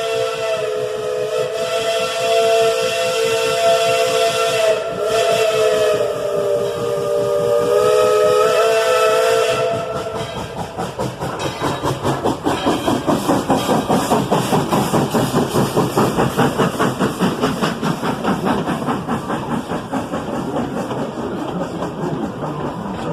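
Steam locomotive's chime whistle blowing one long chord of several notes, dipping slightly in pitch before it cuts off about ten seconds in. Then the locomotive's exhaust chuffing in a steady rhythm of about two to three beats a second, the sound of the engine working to pull the train.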